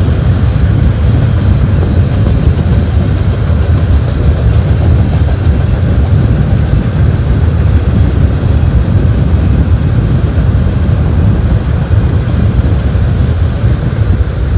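CSX freight train's cars rolling past close by: a loud, steady rumble of wheels on rail.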